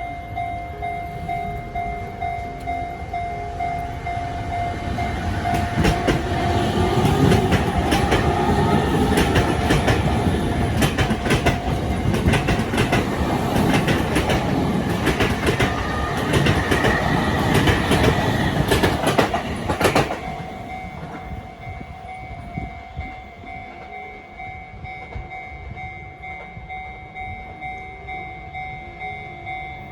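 Level-crossing warning bell ringing in a steady, repeating electronic ding. From about five seconds in, a Sotetsu electric train passes over the crossing, its wheels clacking over the rail joints under a rising whine, until the train noise cuts off about twenty seconds in and the bell rings on.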